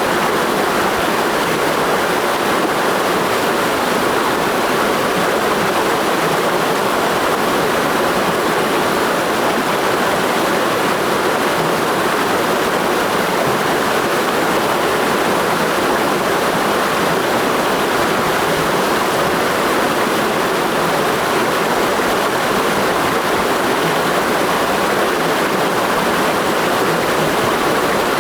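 Clear mountain stream flowing, a steady, even rush of water with no breaks.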